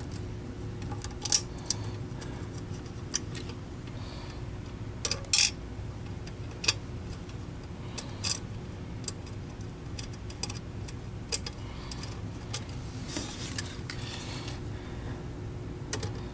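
Scattered light clicks and taps of small plastic and metal parts being handled as a vacuum cleaner's switch is fitted back into its housing, with a faint steady hum underneath.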